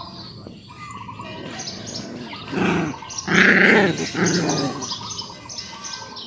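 Dog whining softly, then a few loud crying yelps in quick succession about halfway through.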